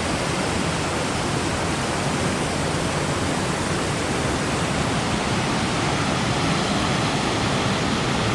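Rushing water of a mountain stream: a steady, full roar of flowing water with no change.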